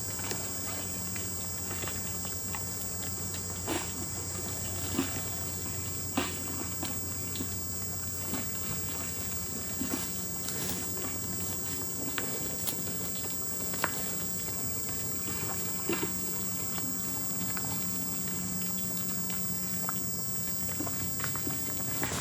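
Steady high-pitched insect chorus with a low steady hum beneath, broken by scattered short clicks and knocks, typical of cattle moving and feeding close by.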